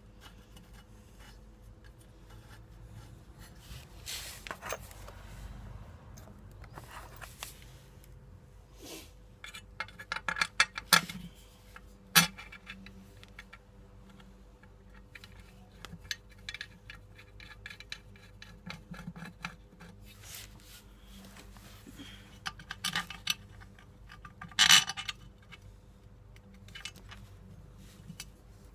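Scattered metallic clinks, rattles and scrapes of hand tools and metal parts being handled during motorcycle exhaust and sump work, with louder bunches of clinks about ten to twelve seconds in and again near twenty-five seconds.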